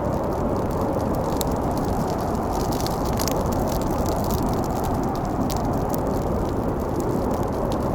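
Blizzard wind blowing steadily, with a wood fire crackling over it in scattered sharp pops.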